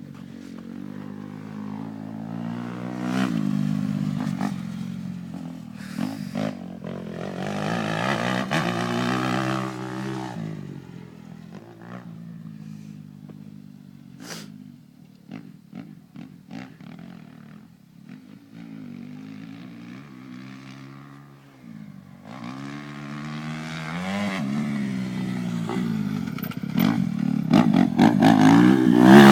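Motocross dirt bike engines revving up and down, rising and falling over and over, growing loudest near the end.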